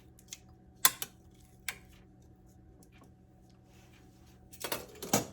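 Kitchen tongs clicking and knocking against a baking dish as chicken breasts are flipped: a few sharp clicks, the loudest about a second in, and a quick cluster near the end. A steady low hum runs underneath.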